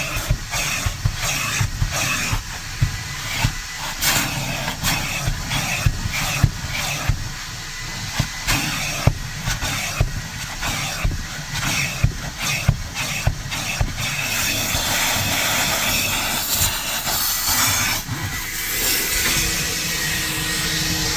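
Car wash vacuum running with a steady rush of suction, the nozzle knocking and clattering many times as it works over the car's interior, then a smoother rush for the last few seconds.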